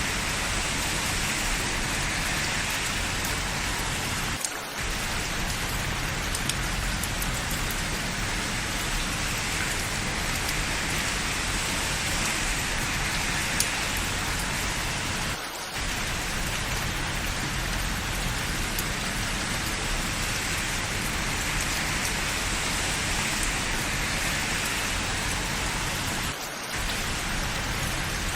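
Steady rain falling, an even hiss with a few sharp drop ticks. The sound dips briefly three times, about eleven seconds apart.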